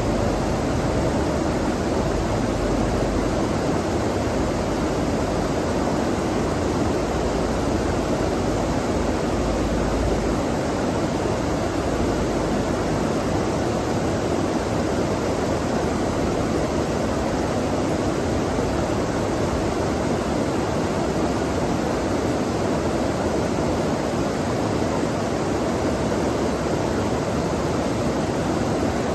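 Flowing stream water rushing steadily, a constant even noise, with a faint low rumble that fades out about ten seconds in.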